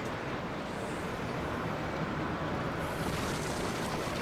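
Steady rumble of construction machinery working, an even noisy drone with no distinct impacts.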